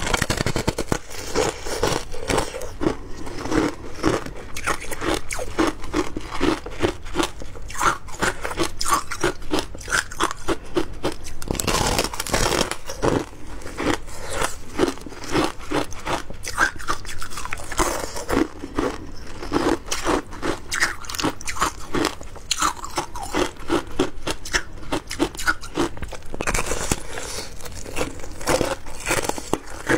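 Shaved ice being bitten and chewed, a dense run of sharp crunches several times a second throughout.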